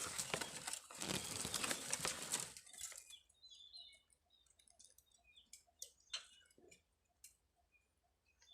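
Close rustling and handling noise for about three seconds, then a quieter stretch of scattered faint clicks and short high chirps.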